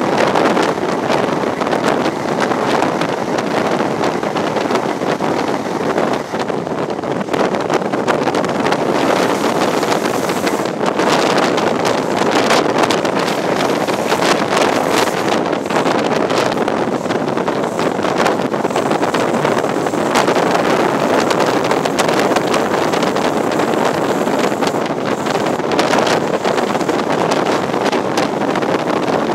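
High Speed Train running at speed through a tunnel, heard through an open coach window: a loud, steady rush of wheel, rail and air noise, with wind buffeting the microphone.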